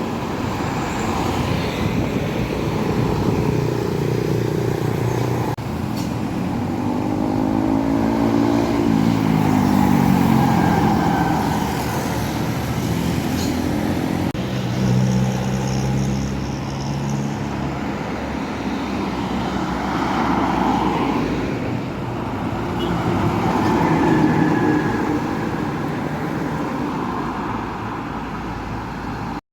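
Road traffic with heavy vehicles going by: truck and bus engines over steady tyre and road noise. One engine note climbs and then drops away about a third of the way in, and another holds steady about halfway through.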